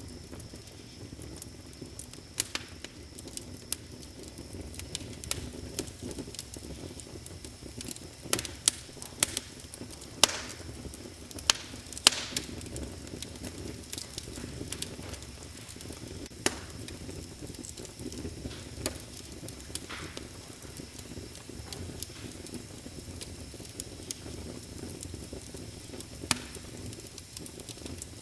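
Wood fire crackling in a fireplace: irregular sharp pops and snaps over a steady low rumble of burning, with a cluster of louder pops around the middle.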